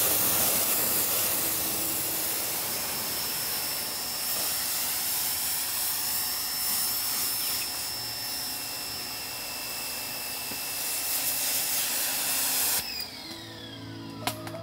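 A motor-driven machine running with a steady rushing hiss and a high whine, then cutting off sharply near the end, its whine falling as it spins down.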